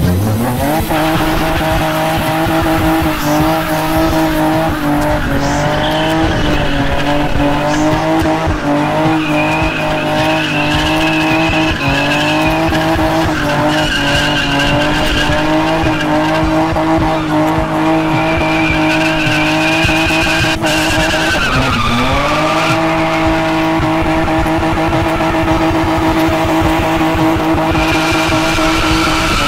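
BMW E36 engine held at high revs through its cheap custom exhaust (Chinese headers into a 60 mm pipe) while the car does donuts, its rear tyres spinning and squealing. Once, partway through, the revs drop sharply and climb straight back up.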